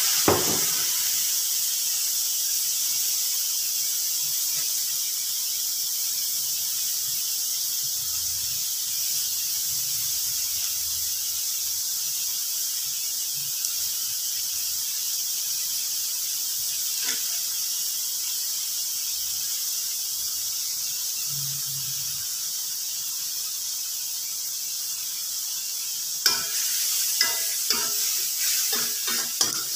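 Vegetables and dried anchovies sizzling steadily in a metal wok. From about four seconds before the end, a slotted metal spoon scrapes and clinks against the wok as the food is stirred.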